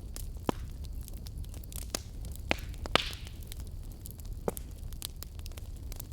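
Wood fire burning in a fireplace: a steady low rumble of flame with scattered small crackles and a handful of sharp pops, the loudest about three seconds in.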